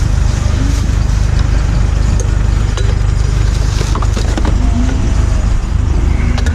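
Steady low rumble of a car driving, with road and engine noise, and a few light clicks and rattles over it.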